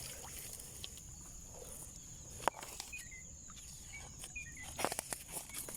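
Steady high-pitched insect drone, with a few short bird chirps and a few sharp clicks, one about halfway through and a cluster near the end.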